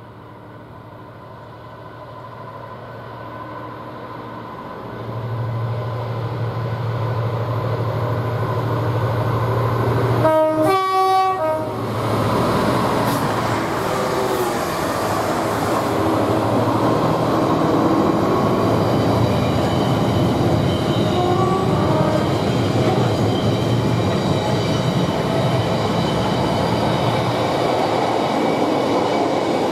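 A diesel-hauled container freight train approaching, its engine a steady low hum that grows louder. A train horn sounds briefly about ten seconds in. Then comes the rolling rumble and rail clatter of the container wagons and an electric multiple unit running past.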